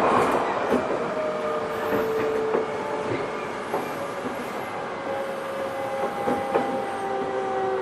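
Odakyu 1000 series EMU with a Mitsubishi GTO VVVF inverter running, heard from inside the motor car: the inverter's steady tones drift slowly down in pitch, and a higher tone joins about five seconds in. Under them runs the wheel and rail rumble, with a few sharp rail-joint clicks.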